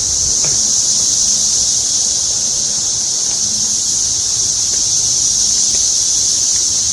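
Chorus of cicadas making a loud, steady, high-pitched drone, with low wind rumble on the microphone beneath.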